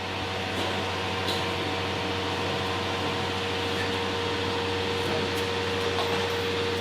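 A steady machine hum of a fan or blower, with a constant low drone under a thin steady whine.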